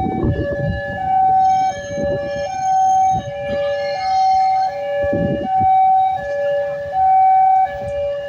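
Two-tone warning siren alternating steadily between a higher and a lower note, each held for about two-thirds of a second, over a low rumble.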